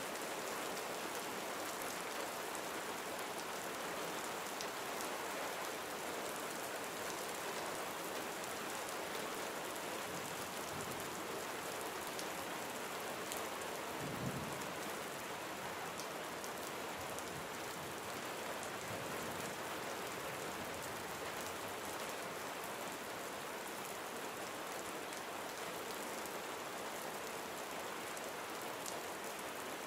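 Steady gentle rain falling on surfaces, with fine drop patter throughout. A single brief low thump about halfway through.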